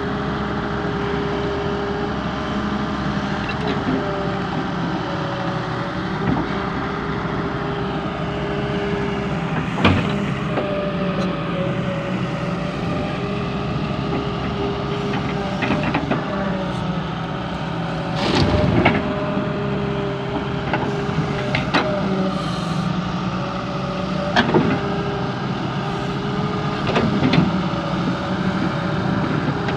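Volvo EW130 wheeled excavator's diesel engine running steadily, its note dipping and rising slightly, with a few short knocks and clanks, the sharpest about ten seconds in and a longer one a little past eighteen seconds.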